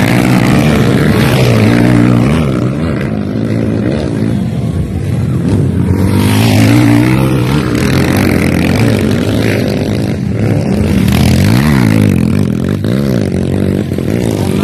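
Motocross motorcycle engines running at race pace, revving up and down, with quick rises and falls in pitch near the end.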